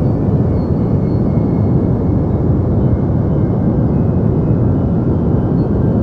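Continuous synthetic deep white noise for sleep: a steady, dull hiss-like rumble, heavy in the bass and soft in the treble, that never changes.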